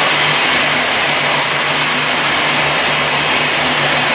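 V/Line VLocity diesel multiple unit passing close by at speed: the steady hum of its underfloor diesel engines under a loud, even rush of wheels on rail.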